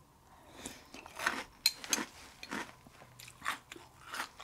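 A person chewing a mouthful of Hostess Honey Buns cereal in milk, with a run of irregular, uneven crunches as the pieces break up.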